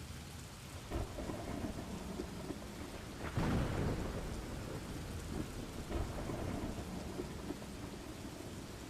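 Thunderstorm ambience: steady rain falling, with thunder rumbling through it. The loudest roll comes about three and a half seconds in, with smaller ones about a second in and near six seconds.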